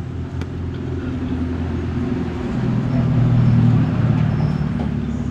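A motor vehicle's engine running, growing louder to a peak a little past halfway, then easing.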